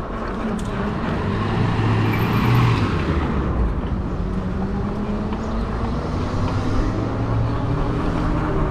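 Steady road traffic noise with a motor vehicle's engine hum, swelling loudest about two and a half seconds in.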